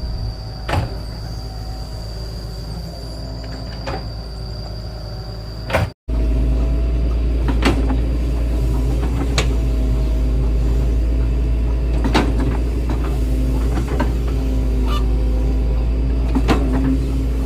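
Excavator's diesel engine running steadily, with scattered sharp knocks and clanks. It cuts out briefly about six seconds in and comes back louder.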